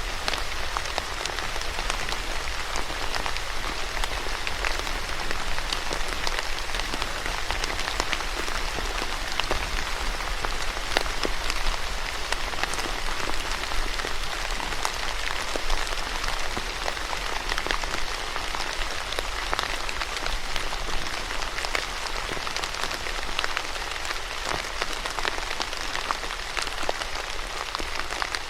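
Steady rain falling on a surface, a dense hiss of many close, distinct drop impacts, with a low rumble underneath.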